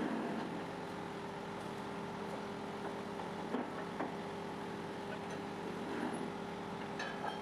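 Steady machinery hum with a few short metallic clicks at intervals.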